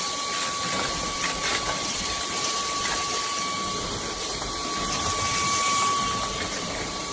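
JELLYPIG cordless stick vacuum cleaner running: a steady rush of air under a thin, high motor whine, with a second, higher whine joining about five seconds in.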